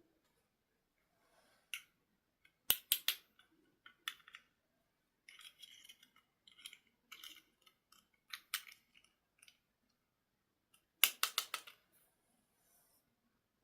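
Close handling of small plastic toy parts and packaging: sharp clicks in two quick clusters, about three seconds in and again near the end, with scattered lighter clicks and rustles between.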